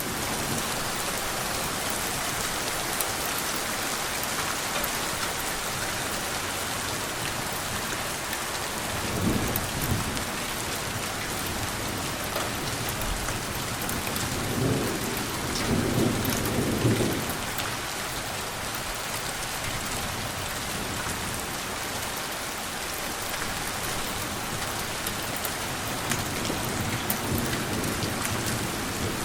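Steady heavy rain hissing, with soft rolls of distant thunder about nine seconds in, a longer one from about fourteen to seventeen seconds, and a faint one near the end.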